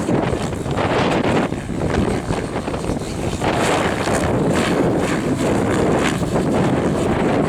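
Strong gusting wind buffeting the microphone with a heavy rumble, over the uneven whooshing of an Align 700E electric RC helicopter's rotor blades flying 3D.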